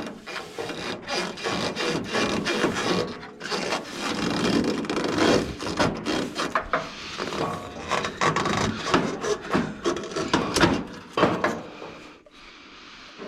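Parts being worked loose by hand during a turbo teardown: continuous, irregular scraping and rubbing with scattered clicks and knocks, easing off near the end.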